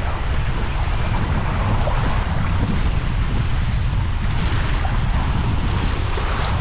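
Rushing water and wind buffeting the microphone on a ride down a water slide, a steady loud rush with a heavy low rumble.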